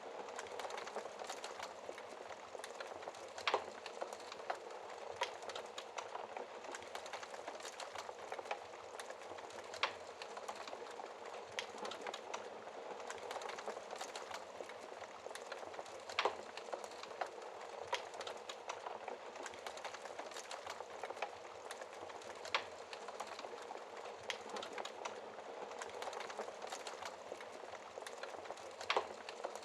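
Wood fire burning in a fireplace: a steady hiss with constant small crackles and a few louder pops of the burning logs.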